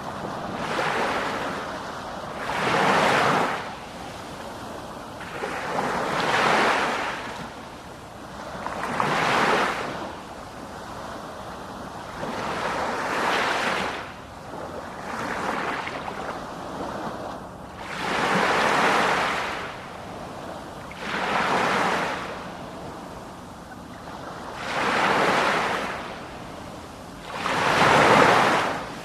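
Sea waves breaking and washing ashore, one surge about every three seconds, each swelling and then falling away.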